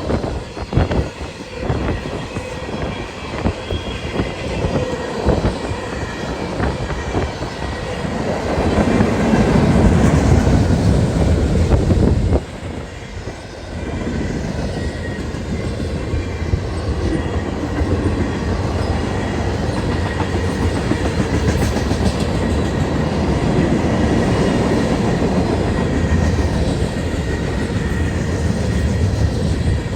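CSX autorack freight cars rolling past with a steady rumble and the clicking of wheels over rail joints. The sound swells louder, then drops off for a moment about twelve seconds in before picking up again.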